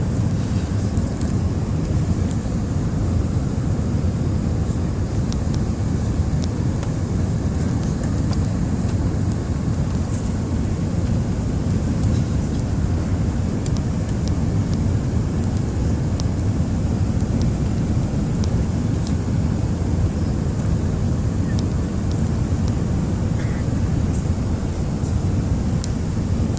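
Steady low rumble of engine and airflow noise inside the cabin of an Airbus A380 airliner, with a few faint ticks.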